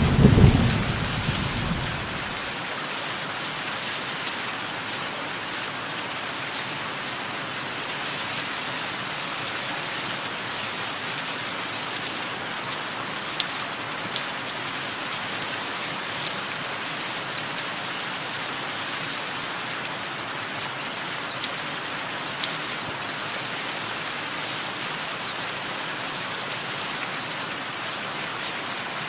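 Steady rain falling, with a roll of thunder dying away in the first two seconds. A bird gives short, high chirps that sweep downward, every second or two.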